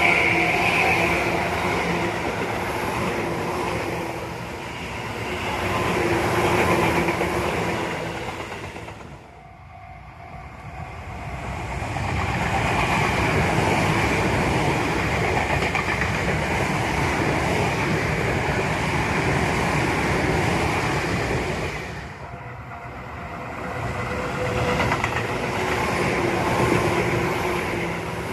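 Tobu Tojo Line electric trains passing, with wheels clattering over rail joints and a steady tone from the running gear. The sound drops away twice and builds again as one train gives way to the next.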